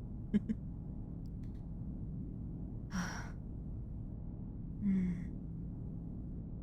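A woman sighing twice, about three and five seconds in, settling down to sleep, with a couple of soft mouth clicks near the start over a steady low background hum.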